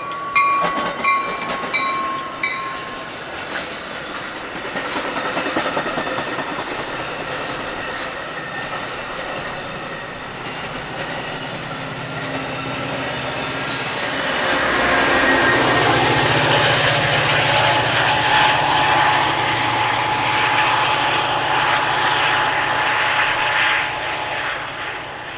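A train passing on the tracks. Wheel and rail noise builds gradually and is loudest from a little past halfway until near the end, with a steady low engine drone underneath, then begins to fade.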